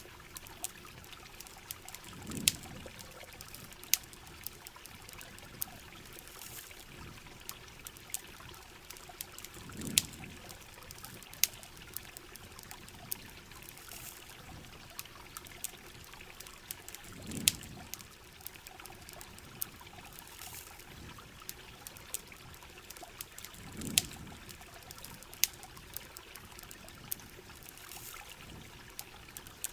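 Steady heavy rain and trickling water, with sharp crackles and pops scattered through it like a campfire, and a low swell about every seven seconds.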